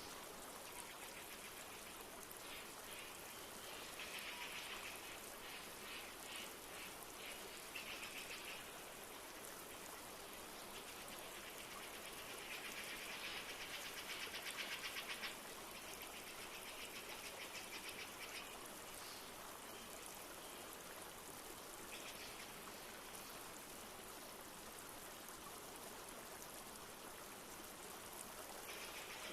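Flowing river with water rushing steadily, joined several times by a rapid, high trilling call that comes and goes, loudest about halfway.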